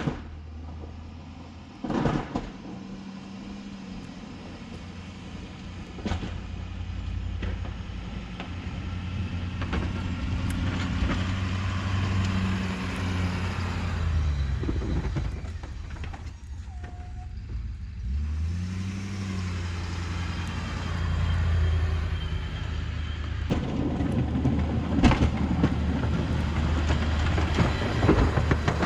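Ford F-350 pickup's engine running under load while pushing snow with a Boss plow. The engine dips in pitch around halfway through and then revs back up, with a few sharp clunks and a rougher, louder scraping noise near the end.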